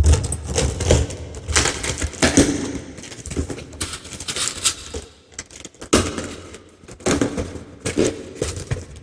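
Irregular rustling and clattering as the packaging and small accessories of an espresso machine are handled, with many short knocks and clicks of plastic and metal parts.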